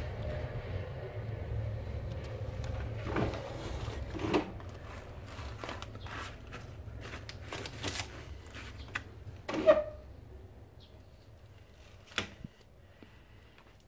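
Low rumble of a diesel freight train fading as it moves away. Over it comes a run of clicks and knocks from handling, with the sharpest knock about ten seconds in and another about two seconds later, as a window frame comes into view.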